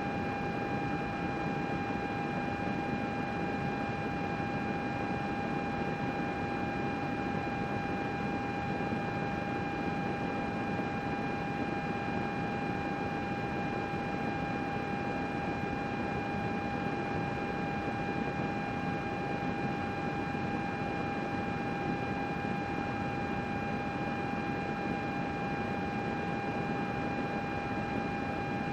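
Desktop computer running with its cooling fans spinning at constant speed: an even rush of air with a steady high whine held at one pitch.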